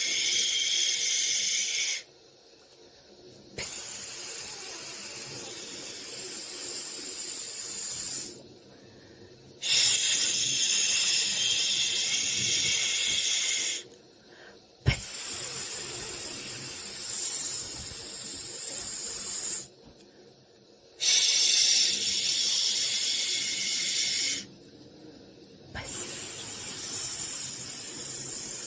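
Soothing white-noise hiss that comes in repeated bursts of about four to five seconds, each cut off by a pause of a second or so, six bursts in all.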